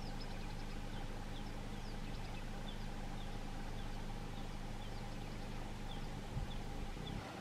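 A car engine idles with a steady low hum while a small bird chirps repeatedly in short, high, falling notes, about twice a second.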